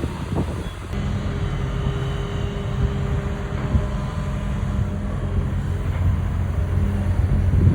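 Long-arm excavator's diesel engine running steadily, a low hum that firms up about a second in.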